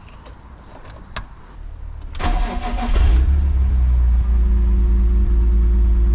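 BMW E46 M3's S54 straight-six cranked by the starter for about a second, then catching and settling into a steady idle. It is running with the MAF and throttle position sensor left unplugged.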